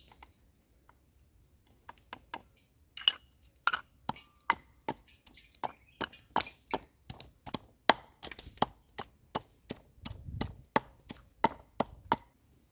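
Knife chopping food on a cutting board. A few scattered strokes come first, then a steady run of about three chops a second, which stops shortly before the end.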